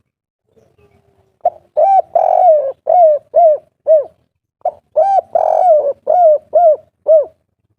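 Spotted dove (tekukur) of the 'kuk 3' type cooing two song phrases. Each phrase is a couple of short notes, then a longer rolling coo, then three clipped 'kuk' coos at the end.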